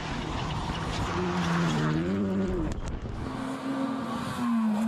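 Rally car engine at speed, its pitch rising and falling with throttle and gear changes, then holding steady, over a rushing noise.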